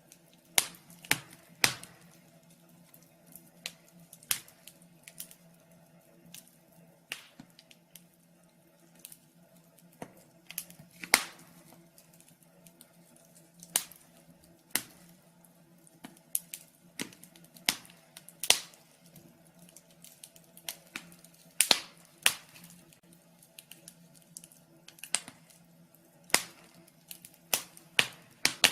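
Wood fire crackling, with irregular sharp pops and snaps of varying loudness over a faint steady low hum.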